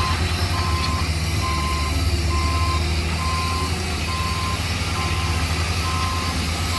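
A heavy construction vehicle's reversing alarm beeping steadily at about one beep a second, over the loud, steady low rumble of its engine running.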